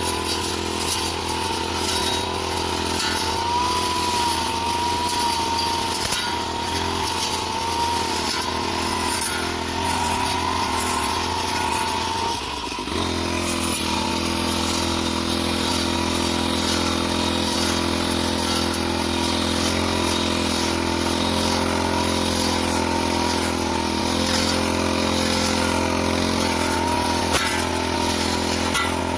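Small petrol engine of a grass-cutting machine running steadily, its note wavering slightly; about halfway through it briefly dips and then settles at a slightly different pitch.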